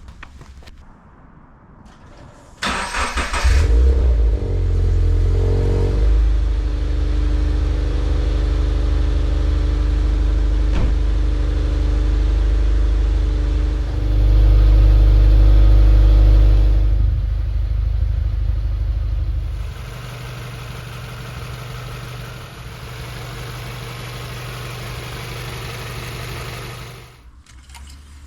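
Toyota 86's FA20 flat-four boxer engine cranked briefly by the starter, catching and running at a steady idle after a fresh oil and filter change. The engine is louder for a few seconds in the middle, quieter later, and cuts off suddenly near the end.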